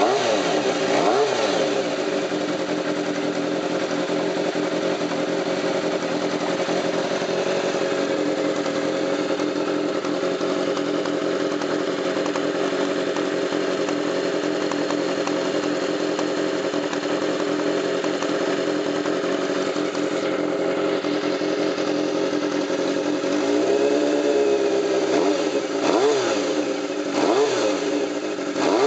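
Kawasaki Z400FX inline-four engine running. It is blipped once about a second in, then idles steadily, then takes several quick throttle blips, each rising and falling in pitch, near the end.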